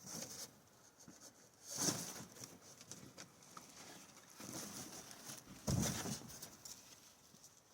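Several short rustling, scuffing handling noises, the loudest about two seconds in and about six seconds in.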